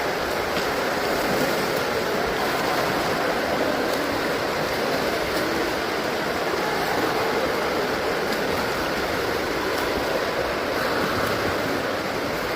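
Steady rushing and splashing of swimming-pool water, with no single event standing out.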